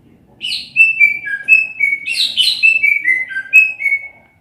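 Cucak ijo (green leafbird) singing: a run of clear whistled notes stepping up and down, mixed with a few harsher notes, starting about half a second in and stopping just before the end.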